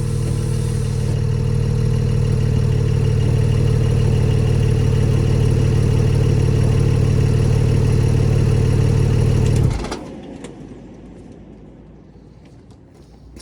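Porsche 718 GT4's 4.0-litre flat-six engine running steadily at a constant pitch, loud, then cutting off abruptly about ten seconds in.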